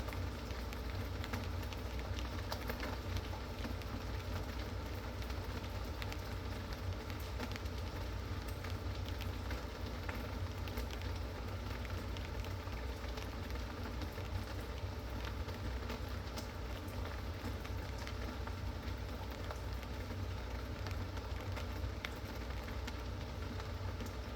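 Steady rain falling, with many small drop ticks over an even hiss and a low steady rumble underneath.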